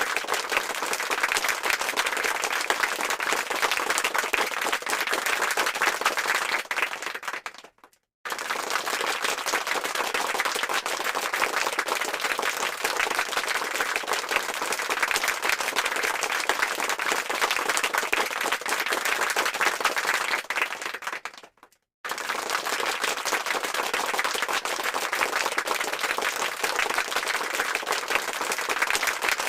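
Applause sound effect: a crowd clapping in a dense, even crackle. It fades out and drops to silence twice, about 8 seconds in and again about 22 seconds in, then starts again abruptly at full level each time.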